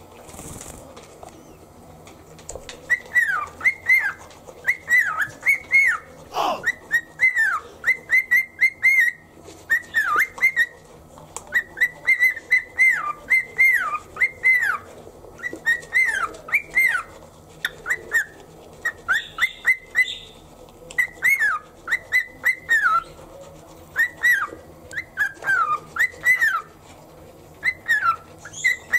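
Cockatiel whistling its song: a quick run of short, clear whistled notes, many gliding down in pitch, repeated in rhythmic phrases starting about three seconds in.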